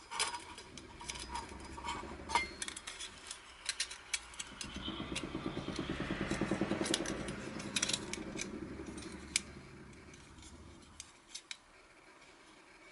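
Light metallic clicks and clinks of stainless-steel fire pit parts being handled. A low rumble swells in the middle and fades away.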